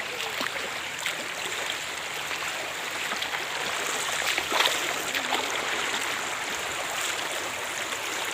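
Stream water rushing steadily over rocks, with a short sharp knock about halfway through.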